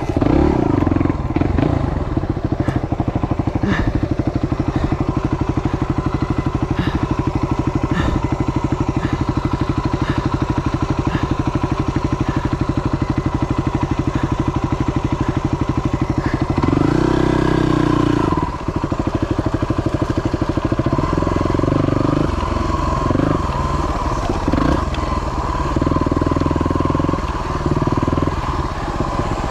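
Yamaha WR250 trail bike's single-cylinder four-stroke engine running under way, a steady note for the first half. About 17 seconds in the note changes sharply for a second or so, then rises and falls unevenly with the throttle.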